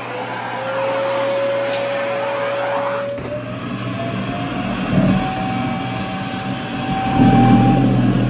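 Vacuum cleaner running with a steady motor whine while sucking in skirt fabric. The pitch steps up about three seconds in, and a louder low rumble comes briefly around the middle and again near the end.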